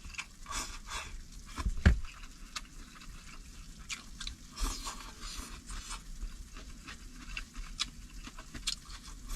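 A person eating at close range: chewing, with scattered small clicks and knocks of utensils and dishes.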